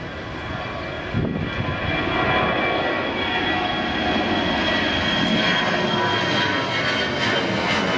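Jet airliner's turbofan engines at takeoff power: a loud rushing noise with a high whine on top. It grows louder over the first two seconds as the plane comes closer, then holds steady.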